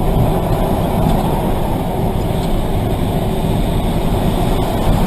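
Steady rumble of a car driving along a road, engine and tyre noise running without any sudden change.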